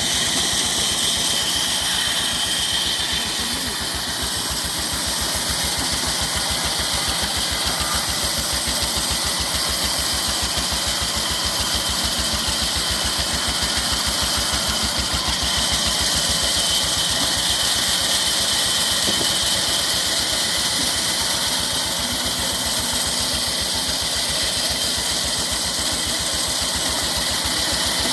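Stationary Petter diesel engine running steadily at a constant speed, its firing beats coming evenly and without change.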